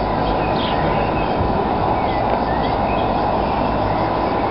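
Train rolling slowly through a station: a steady low rumble, with birds chirping faintly.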